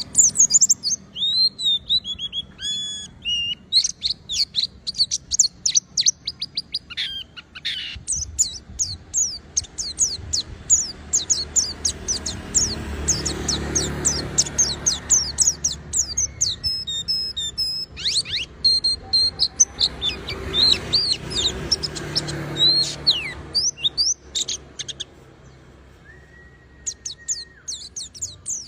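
White-eye (pleci) singing continuously: a rapid, high twittering of chirps and fast trills, with a short lull a little past three-quarters of the way through.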